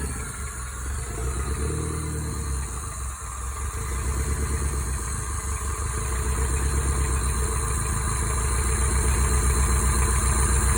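Toyota 5S-FTE inline-four engine idling with an even, steady pulse, getting somewhat louder toward the end. It is running on a freshly swapped rod bearing after developing a rod knock, and the owner judges it to be running okay.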